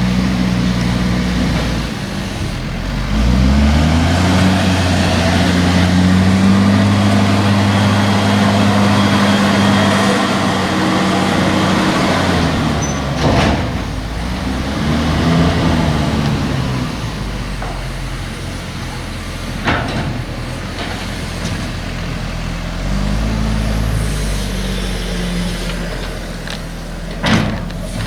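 A tractor engine running under load, its pitch rising about three seconds in and holding, then dropping and climbing again twice, as with gear changes. A few sharp knocks, like a trailer clanking, stand out near the middle and the end.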